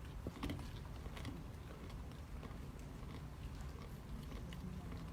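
Communion bread being eaten: faint scattered clicks and small crunching sounds over a steady low room hum.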